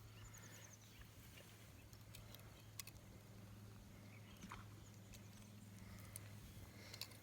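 Near silence outdoors: a faint steady low hum with a few faint ticks.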